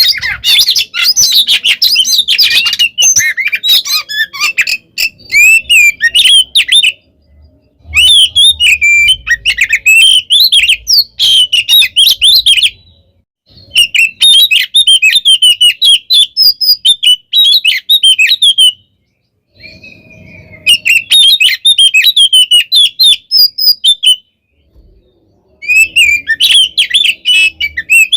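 Oriental magpie-robin (kacer) singing loudly in an agitated, fighting-style song of rapid, varied whistles and chirps. It sings in phrases of several seconds broken by short pauses.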